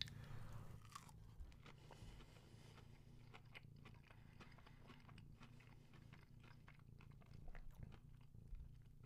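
Faint chewing and crunching of a breaded chicken fry in the mouth: soft scattered clicks over a low room hum, a little louder near the end.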